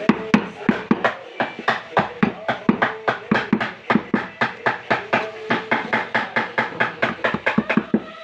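Rapid, even knocking, about five to six sharp strikes a second.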